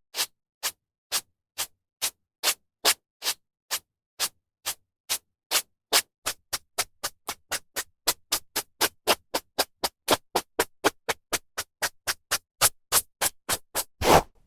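A hairbrush drawn through hair in short, even strokes, each a brief bristly swish. The strokes come about twice a second, then quicken to about three or four a second partway through.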